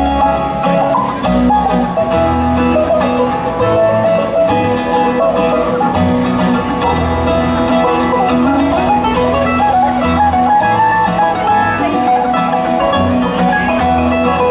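Bluegrass music played live: an instrumental break with banjo and acoustic guitar, without singing.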